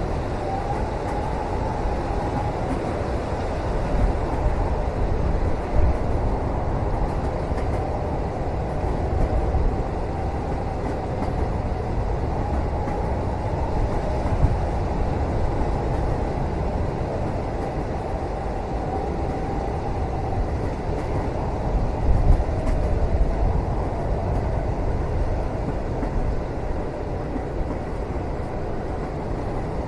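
Train carriage interior while running: a steady low rumble with a faint wavering whine above it and a few louder knocks and jolts from the wheels on the track.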